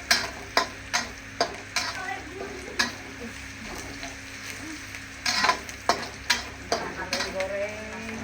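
Food sizzling in hot oil while a spatula scrapes and knocks irregularly against the pan: stir-frying, as when frying the bird meat for a spicy soy-sauce dish.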